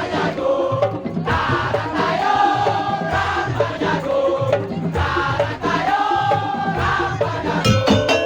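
Madurese daul (tong-tong) ensemble music: a sung or blown melody in long phrases over drum beats. Near the end it switches to fast, ringing struck percussion with a steady beat.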